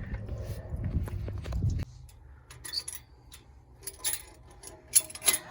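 A low rumbling noise that cuts off suddenly just under two seconds in, then scattered metallic clinks and clanks, the sharpest a few seconds later.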